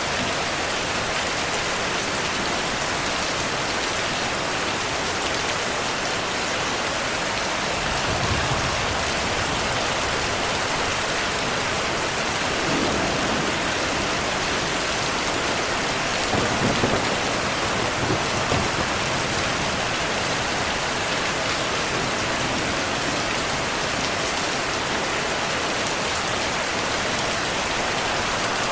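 Steady rainfall, with a few low thunder rumbles swelling up about eight seconds in and again around the middle.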